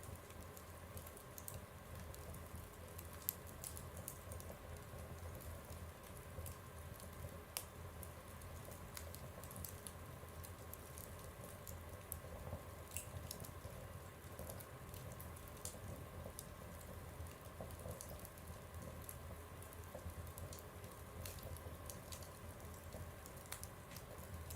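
Wood fire burning in a stove, crackling with scattered small pops and snaps over a soft low rumble.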